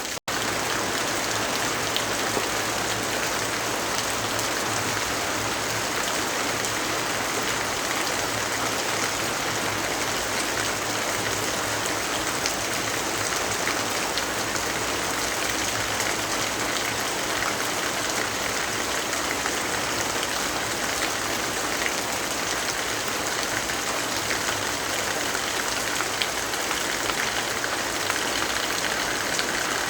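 Steady heavy rainfall, a dense even hiss with faint scattered drop ticks. The sound cuts out for an instant just after the start.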